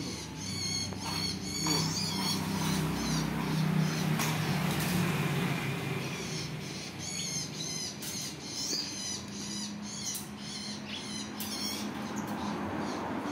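Small birds chirping in quick repeated calls, over a low steady hum.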